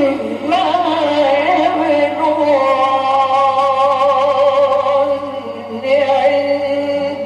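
Quran reciter's voice carrying a long, drawn-out melodic phrase whose pitch wavers and ornaments on held notes, over a steady low hum from the old recording.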